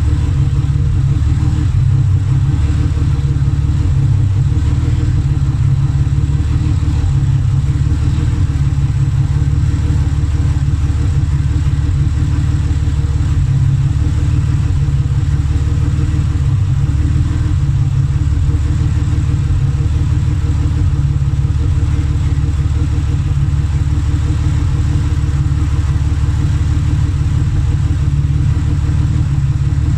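Turbocharged Mercedes M104 straight-six engine idling steadily on its first run after being newly built, a low, even running note with no revving.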